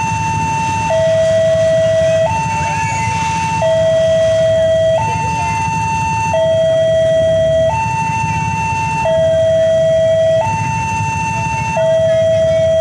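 Railway level-crossing warning alarm sounding continuously: an electronic two-tone signal alternating between a high and a low tone, each held a little over a second. A steady low rumble runs underneath.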